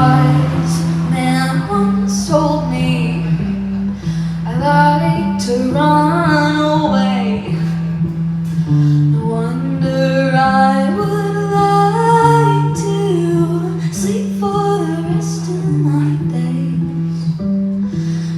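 A woman singing live, with long held and bending notes, over a bass playing a steady line of low notes that change about once a second.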